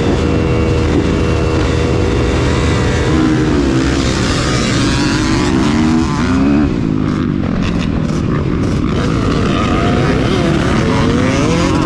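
Several motocross bike engines running and revving, their pitch rising and falling repeatedly over a constant low rumble.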